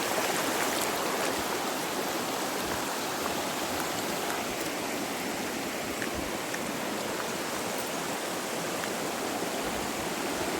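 Small hillside stream flowing down from a gully, a steady rushing of water.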